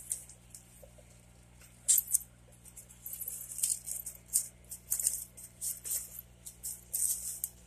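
Aquarium air bubbler's bubbles breaking at the water surface in an irregular crackling patter, heaviest in the second half, over a steady low pump hum.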